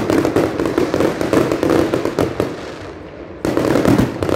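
Fireworks going off at close range in a dense run of rapid crackling bangs. The crackling thins out a little past halfway, then a fresh loud burst of cracks starts near the end.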